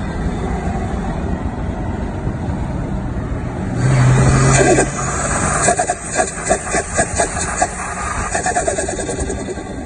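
Turbocharged 4x4 engine running, surging louder for about a second around four seconds in, then turbo flutter: a rapid fluttering chatter of compressor surge as the throttle is lifted, dying away near the end.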